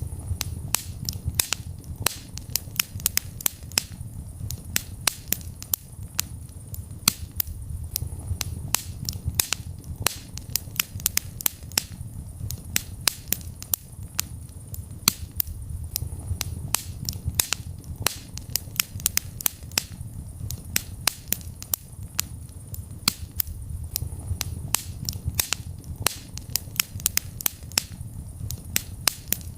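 Wood fire burning in a fireplace: dense, irregular sharp crackles and pops, several a second, over a low steady rumble of the flames.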